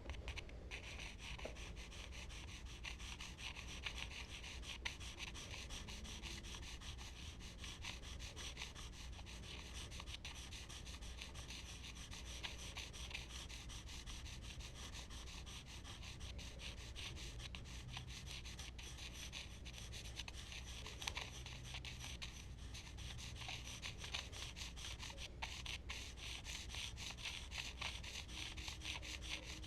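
Charcoal and blending tools rubbing and scratching across smooth Bristol paper: a steady, dry, scratchy hiss of drawing strokes.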